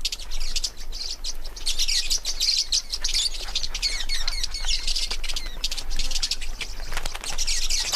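A flock of Lilian's lovebirds chattering: many high, rapid, overlapping chirps at once, coming to drink.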